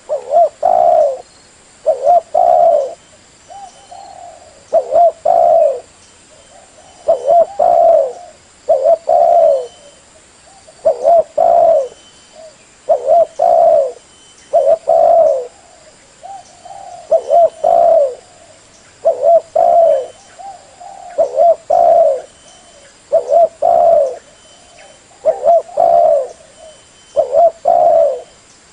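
Spotted dove cooing over and over. Each phrase is a short group of two or three low coos, repeated about every two seconds.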